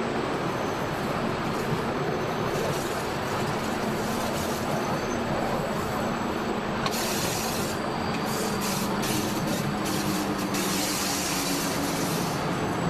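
Electric train running along the rails, heard from the driver's cab: a steady rumble with a low hum. A hissing high noise comes in about seven seconds in and again from about ten to twelve seconds.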